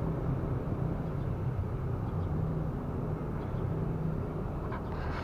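Steady low rumble of distant engines.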